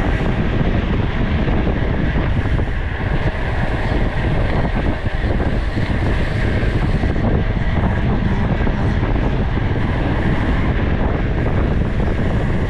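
Wind buffeting the microphone: a loud, steady rumbling noise with no distinct events.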